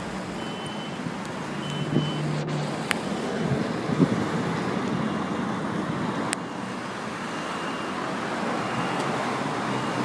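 Steady outdoor traffic noise, a dense rushing sound of vehicles, with a couple of faint sharp clicks.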